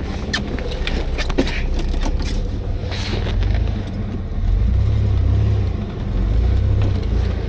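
A vehicle engine running close by, a steady low rumble that swells twice in the second half. Scattered clicks and rustles over it in the first few seconds.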